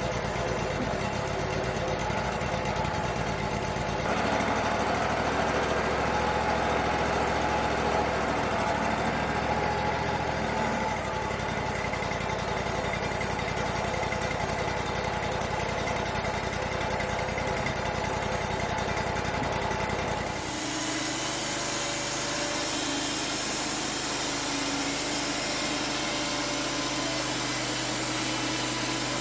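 Wood-Mizer LT35 sawmill running steadily, its engine and band saw going, briefly louder from about four seconds in. About twenty seconds in the sound changes abruptly, with a higher hiss joining in.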